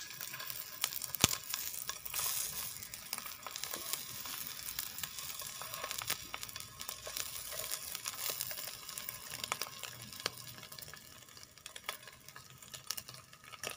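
Pieces of egg-and-leek omelet frying in oil in a pan: a steady sizzle with many small crackles, with one sharp click about a second in, and the sizzle easing off near the end.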